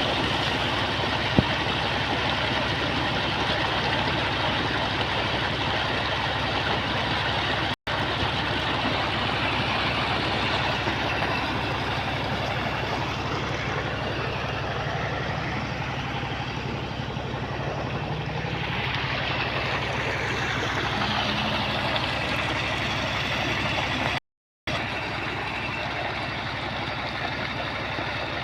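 Heavy engine of an earth-digging machine running steadily, with the sound breaking off for a moment twice.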